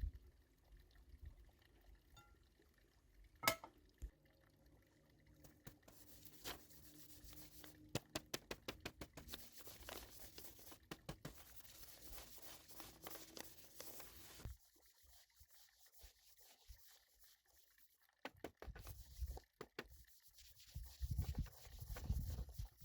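Kitchen handling sounds with liquid: a sharp clack about three and a half seconds in, then a run of small clicks and splashy hiss like liquid being poured or mixed in a bowl, stopping suddenly, followed by low knocks and handling near the end.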